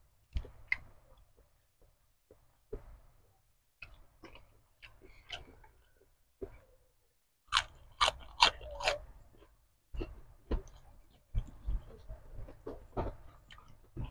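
A person chewing and biting goat-head meat close to a clip-on microphone: wet mouth clicks and bites separated by short pauses, with a cluster of louder, sharper bites about eight seconds in.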